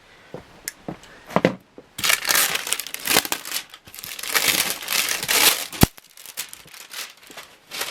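Cellophane wrapping crinkling and tearing as it is pulled off a ceiling fan blade. A few light clicks come first, then dense crinkling from about two seconds in, with a single sharp click near the end.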